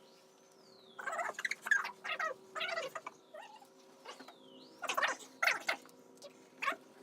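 Paper name slips rustling in a bowl as they are stirred and handled, in several short bursts.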